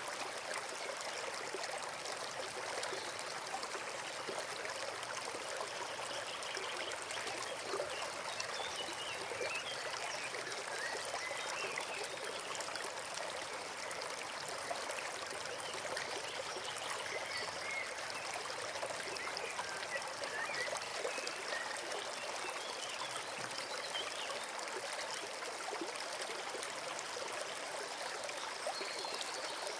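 Forest stream running steadily, a continuous trickling rush of water.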